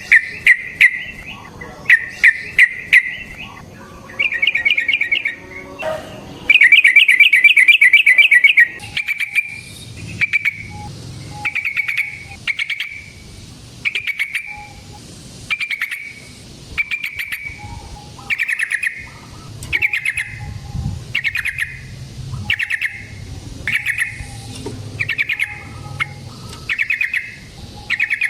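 Yellow-vented bulbul (trucukan) singing: short bubbling phrases, a long rolling run of rapid notes about six seconds in, then short chattering phrases about once a second.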